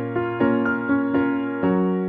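Soft electric piano background music: a slow melody of separate notes, each striking and fading, over a held bass note.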